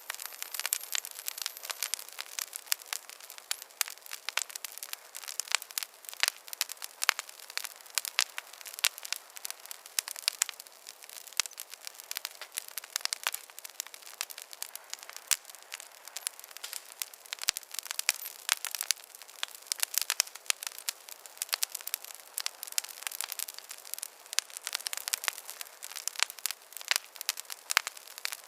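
Wood campfire crackling and popping steadily, with many quick irregular snaps over a soft hiss of burning.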